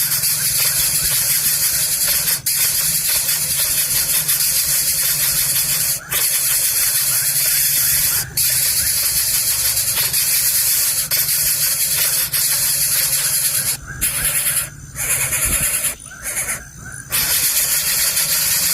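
Coucal nestlings making a loud, steady hissing begging noise. It cuts out briefly a few times and stops for two short spells near the end.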